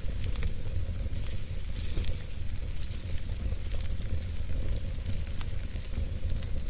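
Wood fire in a fireplace burning steadily: a low rumble of flame with a hissing crackle and scattered small pops and snaps.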